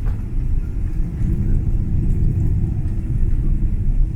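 Steady low rumble inside an airliner's cabin as it rolls along the ground after landing: engine and wheel noise.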